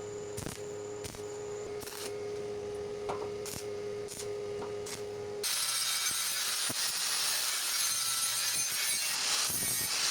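Workshop power tool running with a steady hum and scattered clicks, then, about five seconds in, an abrupt change to a louder, harsh abrasive noise of cutting or sanding.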